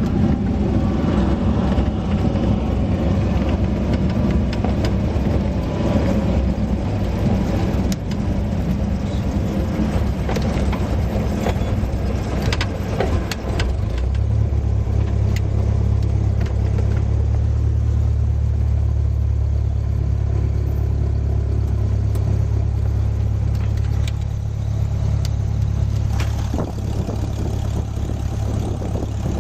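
Cessna 172S's single piston engine and propeller running steadily. About halfway through, the sound settles into a deeper, steadier low drone with less of the higher noise above it. A few sharp clicks come shortly before the change.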